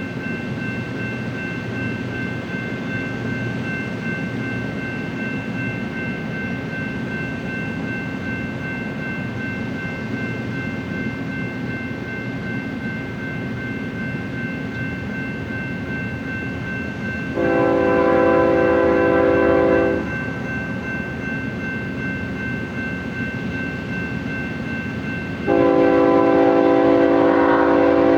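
BNSF freight train rolling by with a steady rumble and a thin, steady high-pitched whine. The diesel locomotive's multi-note air horn sounds a long blast of nearly three seconds about two-thirds of the way in, and a second long blast starts near the end.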